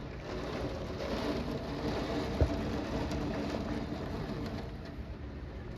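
Heavy, wind-driven rain pouring down as a steady rushing noise, with one sharp knock about two and a half seconds in.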